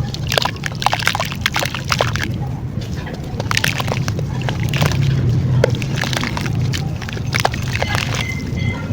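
Dried clay or cement crumbling and crunching, with many sharp irregular crackles over a steady low hum.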